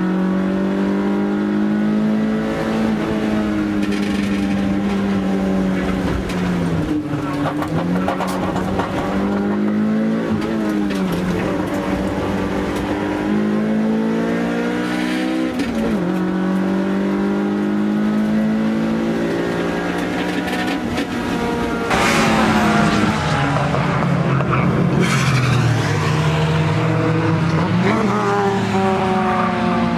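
Toyota AE86 Corolla's 4A-GE twin-cam four-cylinder heard from inside the cabin under hard acceleration on track, revving up through the gears with the pitch dropping at each upshift. About two-thirds of the way through, the sound turns abruptly louder and hissier as the engine is heard from outside, still rising and falling with the shifts.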